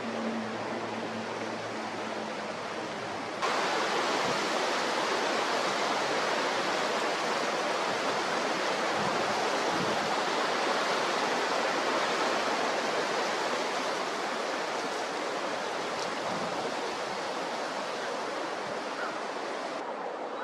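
Strong wind blowing, a steady rushing hiss with no engine or voice in it. It jumps louder and brighter a little over three seconds in and holds there.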